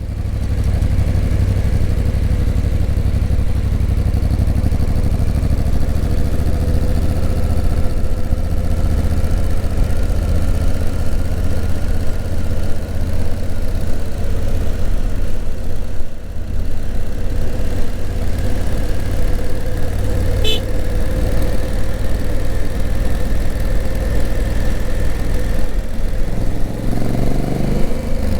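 Honda Africa Twin's 998 cc parallel-twin engine running steadily at low revs, then rising in revs near the end.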